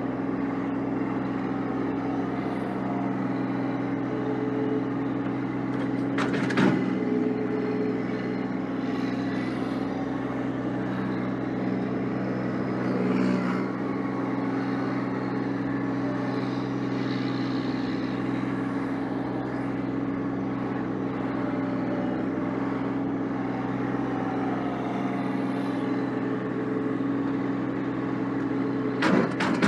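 Massey Ferguson 1725 sub-compact tractor's engine running steadily while clearing snow, with a short clatter about six seconds in and again near the end.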